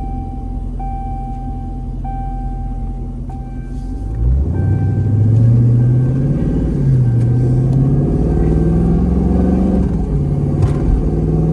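Dashboard warning chime dinging about once a second over the low hum of the 2022 Dodge Scat Pack Widebody's 6.4-litre HEMI V8, its temperature warning for an engine running at maximum temperature. About four seconds in, the V8 accelerates, rising in pitch, dropping back twice at upshifts and climbing again.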